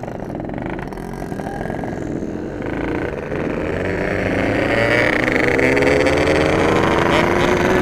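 Ported Yamaha RX-King 135 cc two-stroke single-cylinder engine accelerating, its pitch climbing steadily and getting louder over the last few seconds.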